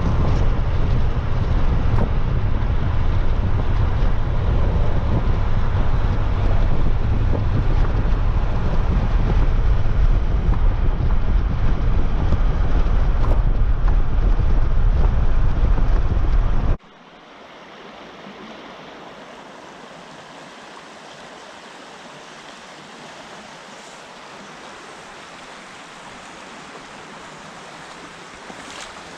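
Wind buffeting the microphone over the steady rush of creek water, loud and heavy in the low end. About two-thirds of the way through it cuts suddenly to a much quieter, even rush of flowing water.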